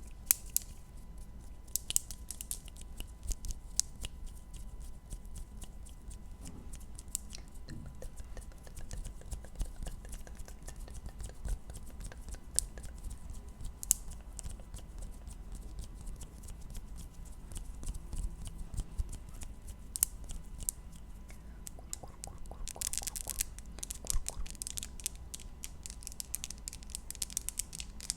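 ASMR mouth sounds made close to the microphone: a steady run of small sharp clicks and crackles, coming thicker in two stretches near the end.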